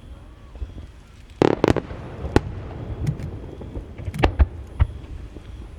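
Aerial firework shells bursting over the sea, a run of sharp bangs with a rumbling echo after each. A tight cluster of bangs comes about one and a half seconds in, and single loud reports follow every second or so.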